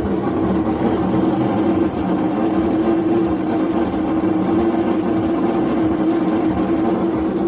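Washing machine drain pump running: a steady electric hum over a rough, rattly churning.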